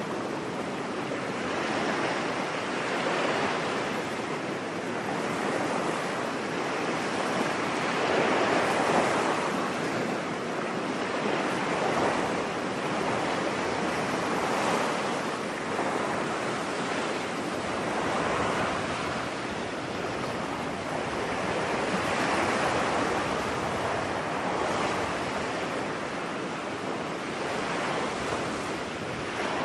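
Ocean waves breaking on a beach, a continuous surf wash that swells and eases every few seconds.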